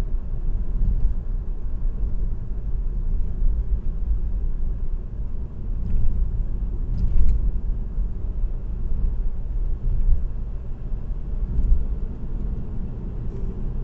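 Steady low road rumble and tyre hum of a car cruising on an expressway, heard from inside the cabin, with a brief knock about seven seconds in.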